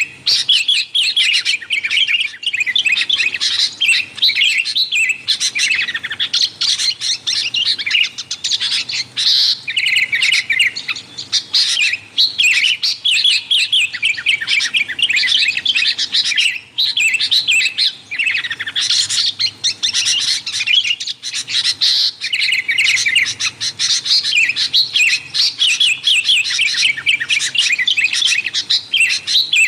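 Sooty-headed bulbuls chattering noisily, a dense run of rapid chirps and short whistles with hardly a pause.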